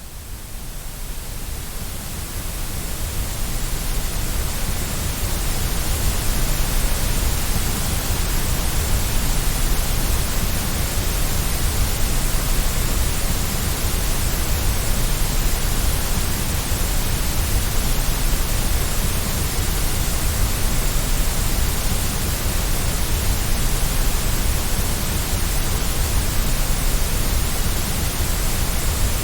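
Steady hiss of white noise, fading in over the first few seconds and then holding even.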